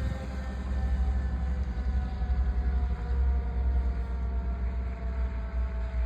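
Fire truck with a steady low engine rumble and a whining tone above it that slowly falls in pitch.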